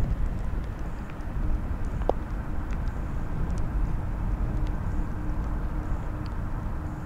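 Boeing 767-300ER's jet engines heard as a steady low rumble.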